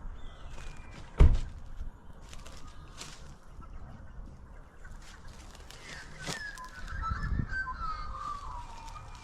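Birds calling, with a run of wavering, falling calls in the last few seconds, over a sharp low thump about a second in and a few scattered clicks.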